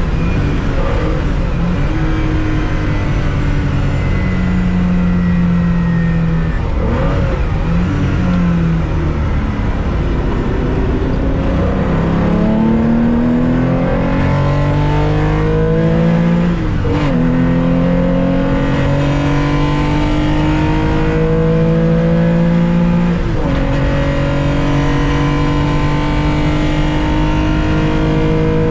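Onboard sound of a 1965 Porsche 911's air-cooled 2.0-litre flat-six under racing load, the revs climbing steadily through the gears. The pitch drops sharply at each upshift, about 17 and 23 seconds in, with a brief lift and blip of the revs around seven seconds in.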